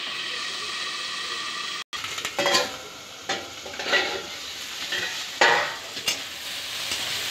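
Bitter gourd slices sizzling in hot oil in an aluminium kadai, a steady hiss for the first two seconds. After a sudden break, the frying goes on more quietly under about six sharp clinks and scrapes of the lid and a metal spatula against the pan as the slices are stirred.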